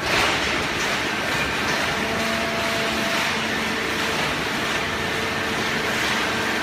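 Horizontal hydraulic baling press running: a steady machine noise with a broad hiss and a faint hum of the hydraulic power unit, a little louder from the first moment on.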